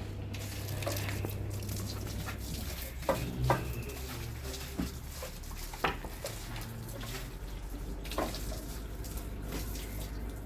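Water running as things are washed, with a few sharp knocks spread through it.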